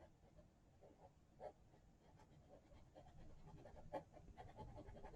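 Near silence: room tone with a few faint taps and rustles, the clearest about a second and a half in and again about four seconds in.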